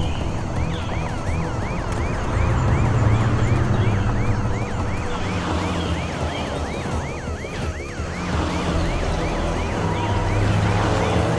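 Cartoon police siren in a fast yelp, its pitch sweeping up and down about three times a second, over a low steady rumble.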